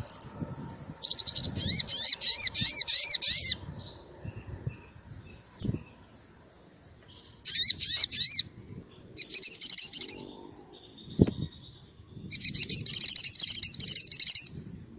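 Sogon sunbird singing: four bursts of fast, high-pitched trills made of rapidly repeated notes, the longest about two and a half seconds, with short pauses between. Two faint thumps fall in the gaps.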